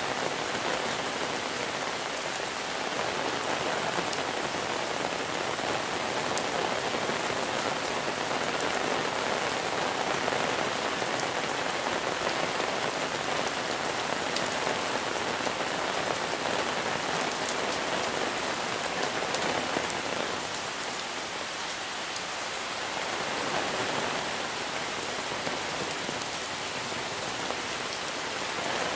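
Steady monsoon rain falling, a dense even hiss of drops on surfaces, easing slightly for a couple of seconds about two-thirds of the way through.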